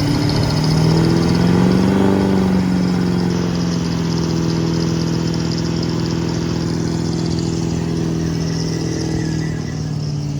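Diesel truck engine running at raised speed: its pitch rises a little about a second in, then holds steady.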